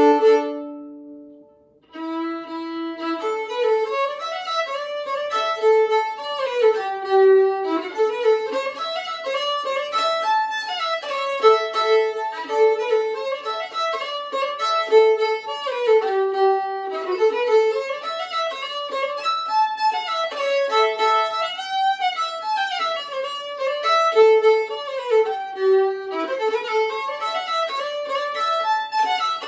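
Five-string fiddle strung with Helicore strings and a Kaplan E, bowed solo: a held double stop at the start, a short break, then a fiddle tune played continuously in quick moving notes.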